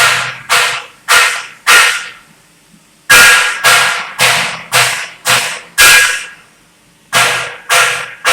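A run of loud, sharp strikes, about two a second, each ringing briefly as it fades: four strikes, a pause of about a second, six more, another pause, then the strikes resume near the end.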